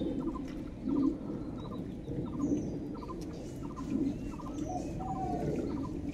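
Birds calling outdoors, with a low cooing call repeated about every second and a half over short higher chirps and whistles.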